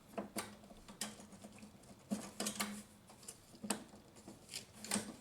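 Scattered light clicks and knocks of hand work on car parts, a dozen or so irregular taps, over a faint steady hum.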